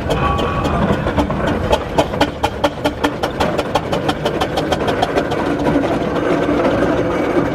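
Steam traction engine on the move, with a low rumble and a quick, regular beat of about four or five strokes a second.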